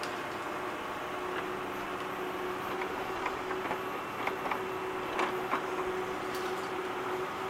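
Small electric motors and plastic gearing of radio-controlled Siku model machinery running with a steady hum and whine, with scattered light clicks and clacks.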